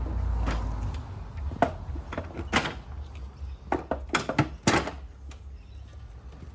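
A string of irregular knocks and clunks, a dozen or so, loudest in the middle, over a low steady rumble.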